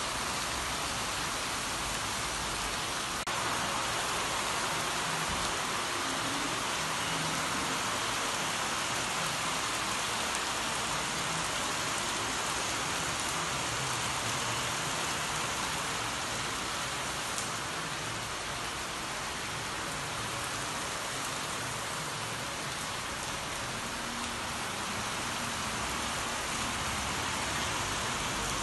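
Heavy rain falling steadily on concrete and corrugated sheet-metal roofs.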